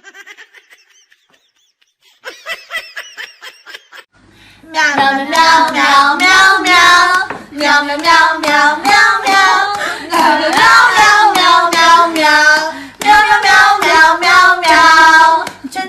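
A high-pitched voice singing loudly in short phrases from about five seconds in, after a few brief pitched calls.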